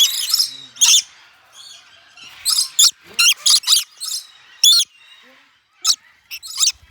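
Parrots squawking: a scattered run of about a dozen short, shrill calls, some coming in quick pairs.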